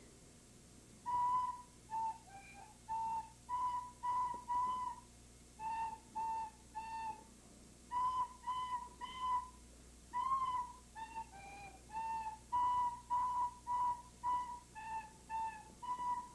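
Recorder played as a simple tune: a run of short, separate notes close together in pitch, in little groups with pauses between them.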